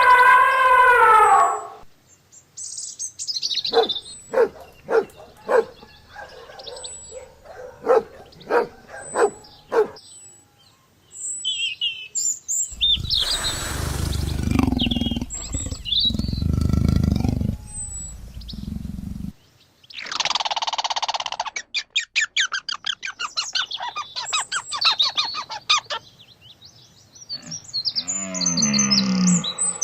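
A run of different animal calls one after another. First come sharp chirping and clicking calls, then a loud, rough, noisy call lasting about six seconds midway, then a rapid trill, and near the end a cow begins to moo.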